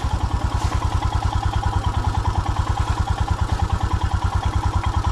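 Motorcycle engine idling steadily, with an even, fast beat of exhaust pulses.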